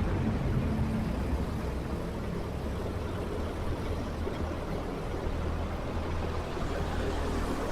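Motorcycle riding in city traffic: a steady rumble of engine and road noise.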